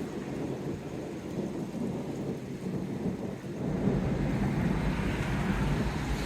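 Thunder rumbling low and continuously, swelling louder a little past halfway through.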